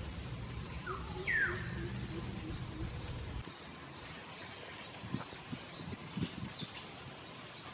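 Birds calling: a loud downward-sliding call about a second in, then scattered short high chirps. A low rumble stops abruptly midway, and a few soft low knocks follow.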